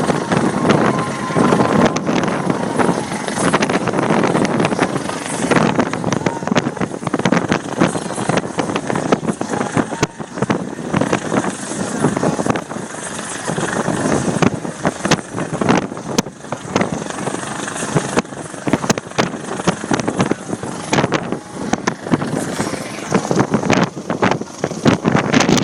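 US Coast Guard rescue helicopter's rotor and turbine noise, loud and steady, broken by many sharp irregular knocks.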